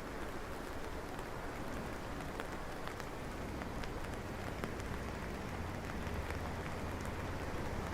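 Steady rain falling and pattering, with scattered drop ticks. From about halfway a low rumble builds underneath.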